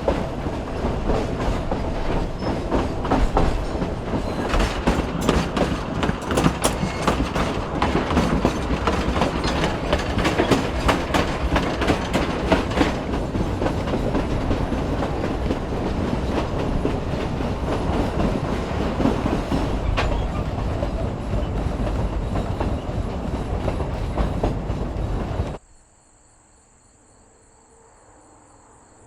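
Narrow-gauge railroad cars rolling on the rails, heard from aboard: steady rumble and rattle with many sharp wheel clicks over the rail joints. About 25 seconds in, the sound cuts off suddenly to faint, steady insect chirping.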